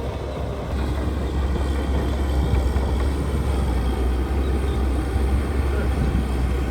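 Heavy diesel construction machinery running with a steady low rumble, a little louder from about a second in.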